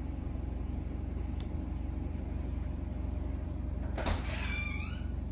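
A steady low electrical hum, with a cat meowing once about four seconds in: a short call that falls in pitch.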